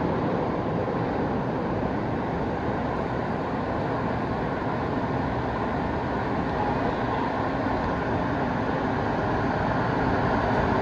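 CTA 3200-series 'L' train pulling slowly into an elevated station, a steady rumble of wheels on rails and running gear.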